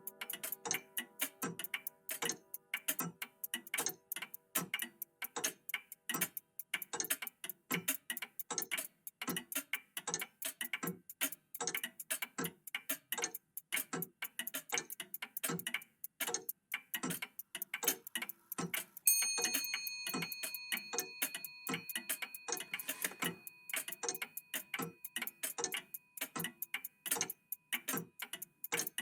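Several old mechanical clocks ticking at once and out of step, making a dense patter of ticks several times a second. Ringing tones fade out in the first few seconds. About two-thirds of the way through, a single bell-like clock chime strikes and rings on.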